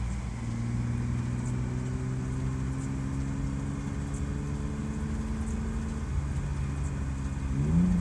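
BMW E36's engine running as the car drives through deep snow, heard from inside the cabin; the engine note climbs slowly and steadily, then revs up sharply near the end.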